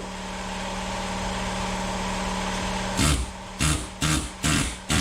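Steady machine hum, then from about three seconds in, five short bursts of an impact wrench working at a tight bell housing bolt.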